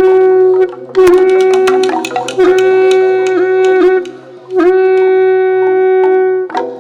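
Central Highlands folk ensemble music: a reedy wind instrument holds long notes on one pitch, dipping briefly in places and breaking off several times, over sharp clicking strikes. The music stops near the end.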